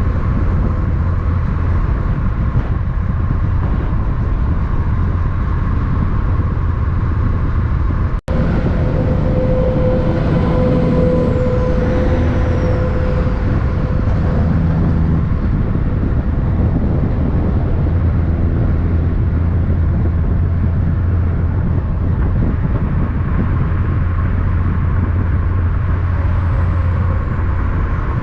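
Steady low rumble of road vehicle traffic, broken by a split-second dropout about eight seconds in.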